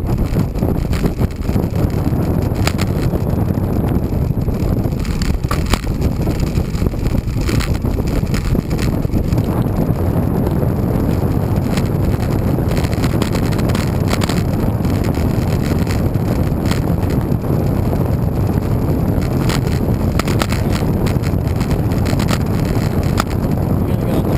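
Wind buffeting the microphone while riding a road bike: a loud, steady low rush, with scattered faint ticks and knocks from the bike and the road.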